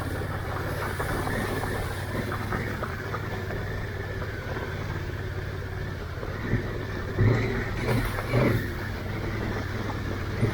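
Honda Africa Twin motorcycle engine running at low speed, with a few brief louder bursts of throttle about seven to eight and a half seconds in.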